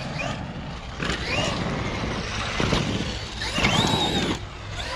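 Brushless electric motor of a 1/6-scale Traxxas XRT RC truck whining in two rising-and-falling bursts as the throttle is opened and eased, over the noise of its tyres on a damp dirt track.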